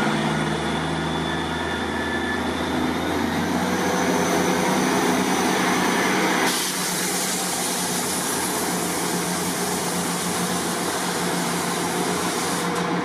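Class 158 diesel multiple unit pulling away, its underfloor diesel engines running under a broad rushing noise. The rushing changes suddenly about six and a half seconds in.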